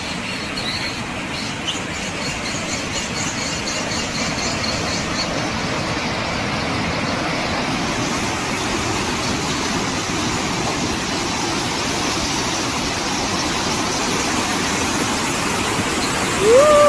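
Floodwater rushing steadily. Near the end a short, loud, high-pitched squeal rises and then slides slightly down.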